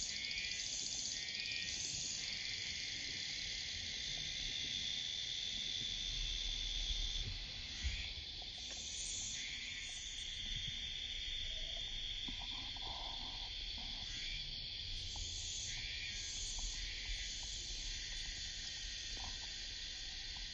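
Dense chorus of summer cicadas: a steady high buzz with a pulsing call that repeats about once a second. There is a single low thump about eight seconds in.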